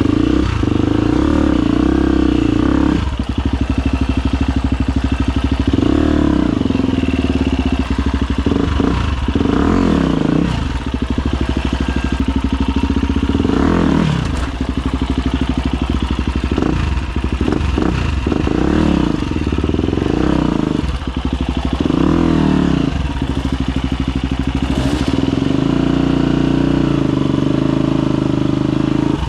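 Husqvarna FE250's four-stroke single-cylinder engine running under constant throttle changes, its pitch rising and falling in repeated short bursts with brief drops between them.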